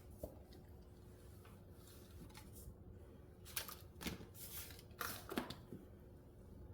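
Paper and cardstock pieces being handled and laid on a scrapbook page: a few faint rustles and slides, clustered in the second half.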